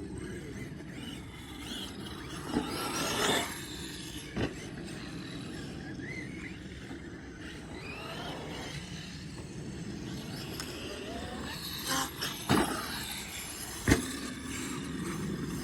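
A few sharp knocks and clatters, four of them, over steady low background noise.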